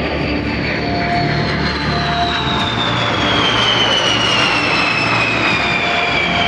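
Boeing B-52H Stratofortress's eight TF33 turbofan jet engines passing in a low fly-by: a loud, steady jet noise with a high turbine whine that falls steadily in pitch as the bomber goes by.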